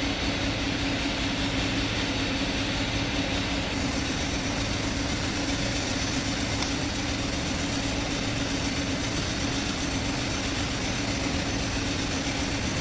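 Steady droning background noise with a constant low hum, unchanging and without distinct knocks or clicks.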